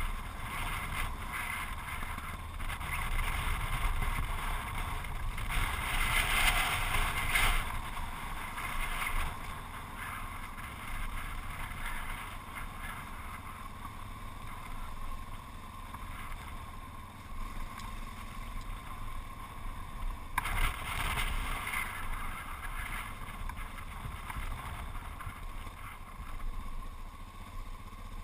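Yamaha XT660Z Ténéré's single-cylinder engine running as the bike rides a rough gravel track, mixed with wind noise on the microphone. The wind gets louder in gusts about six seconds in and again about twenty seconds in.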